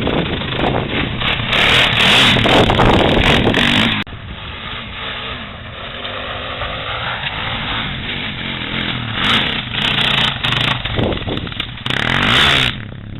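Small off-road vehicle engine running, its note rising and falling, with loud rushing bursts over it; the sound drops abruptly about four seconds in.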